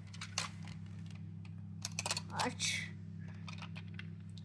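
A few light plastic clicks and taps from a toy being handled and set up, over a steady low hum.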